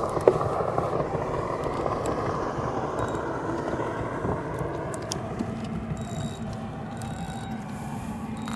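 Small geared mechanism whirring steadily with ratcheting clicks, a faint steady hum joining in about halfway through.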